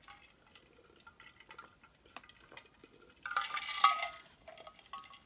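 Crinkling of a chip bag with scattered small clicks and crunches as the chips are handled and eaten. The loudest crinkle comes a little past three seconds in.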